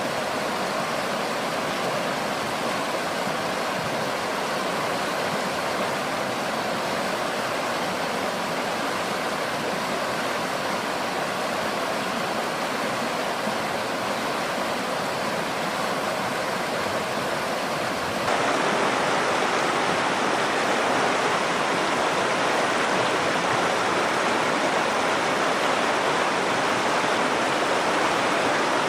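Nakdong River water flowing, a steady even rush. About 18 seconds in it cuts abruptly to a louder, brighter rush.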